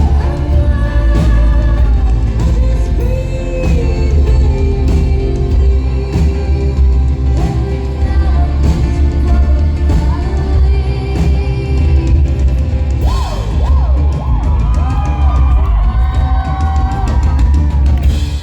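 Live rock band playing loud in a concert hall, with a singer's voice, drum kit and heavy bass, as heard on an audience recording. The music stops abruptly at the very end.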